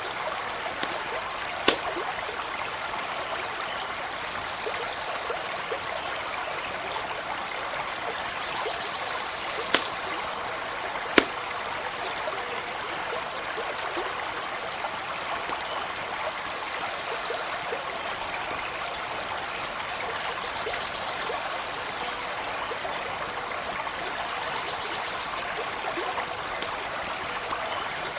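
A stream babbling and trickling steadily. There are three sharp pops of a crackling campfire, about two seconds in and twice around ten to eleven seconds in, and fainter crackles scattered throughout.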